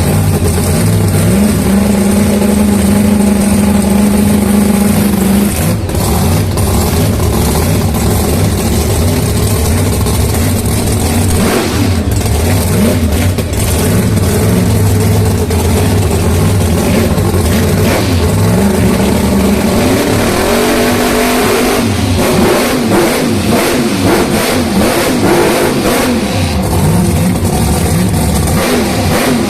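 Drag car engine running loudly, holding a steady note for the first few seconds, then revving with several rising pitch sweeps later on.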